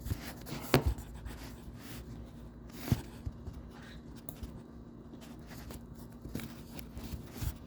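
Quiet handling noises: light rustling with a few soft knocks, three of them louder, over a steady low hum.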